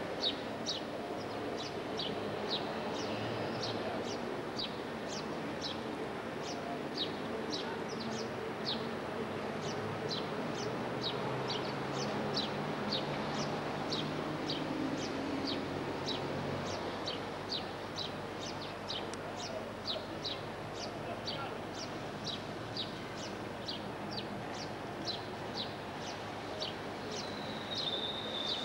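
A bird calling over and over with a short, high, falling chirp, about twice a second and very regular, over a steady low background hum.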